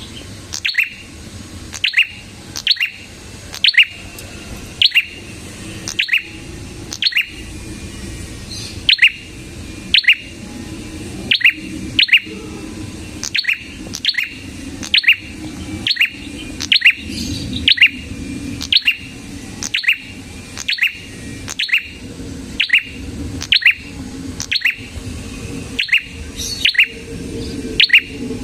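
A prinia (prenjak) calling over and over: a sharp, downward-sweeping chirp repeated steadily about once a second.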